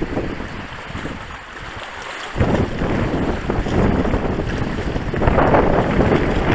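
Wind buffeting the microphone as a low, rumbling rush. It is weaker at first, then gusts up sharply a little over two seconds in and stays strong.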